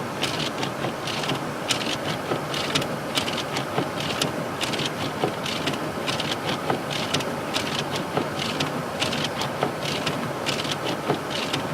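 Snow crunching about twice a second over a steady hiss.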